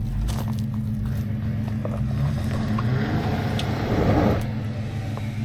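A vehicle engine running steadily, with a louder, rougher swell about three to four seconds in that then eases off.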